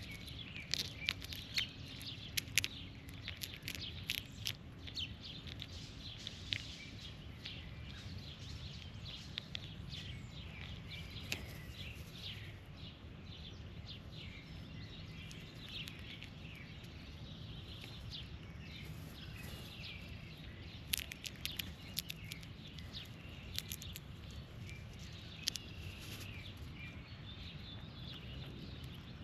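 Birds chirping and calling at a feeding spot, with scattered sharp clicks and taps that are loudest in the first few seconds and again about 21 seconds in. A steady low rumble of background noise lies underneath.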